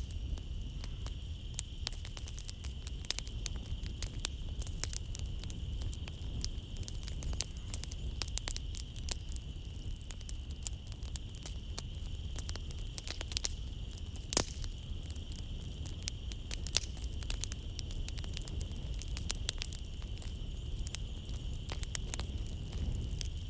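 Wood fire in a fireplace crackling, with dense irregular pops and snaps over a low steady rumble, and one sharper pop about fourteen seconds in. A steady high drone of night insects runs behind it.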